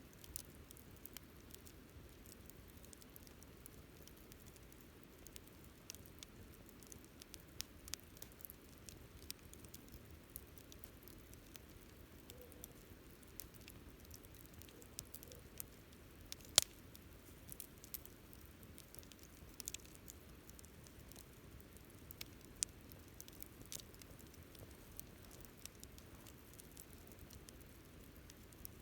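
Wood campfire crackling softly, with scattered small ticks and pops and one sharp, louder pop a little past halfway.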